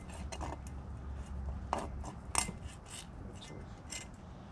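Butcher knife cutting down into an alligator gar's hard, scaly hide: a handful of sharp clicks and scrapes of the blade, the loudest about two and a half seconds in, over a steady low hum.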